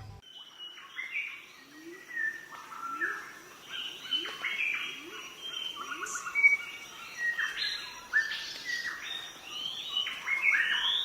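Birds chirping and calling, many short overlapping notes, with a run of short low rising calls about two a second in the middle.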